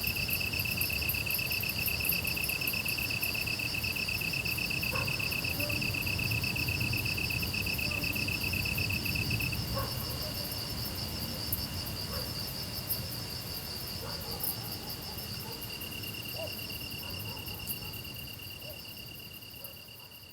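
Grass insects trilling without a break: two steady, fast-pulsing songs at different pitches. The lower-pitched one drops away about halfway through and comes back near the end, and everything fades out at the close.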